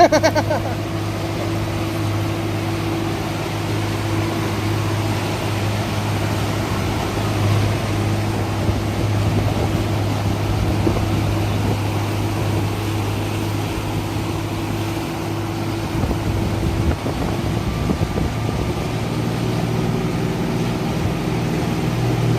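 Motorboat engine idling with a steady low hum, a little fuller near the end.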